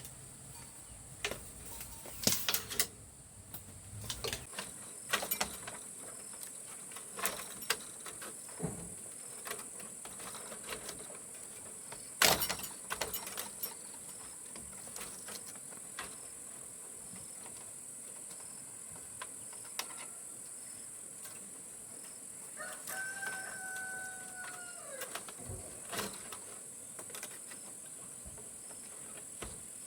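A rooster crowing once, a single held call about three-quarters of the way through that drops in pitch at the end. Under it runs a steady high-pitched insect drone, with scattered clicks and knocks, the sharpest a few seconds in and near the middle.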